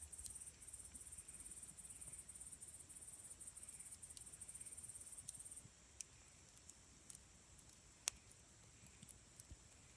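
Quiet wood campfire crackling, with scattered small pops and one sharp snap about eight seconds in. A high, fast trill runs through the first half and stops abruptly.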